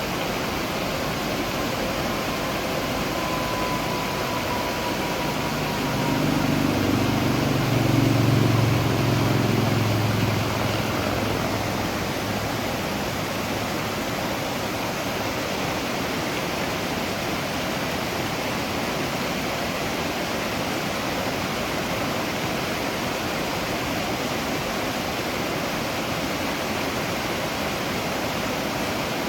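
Waterfall rushing steadily. A low rumble swells and fades over about five seconds a quarter of the way in.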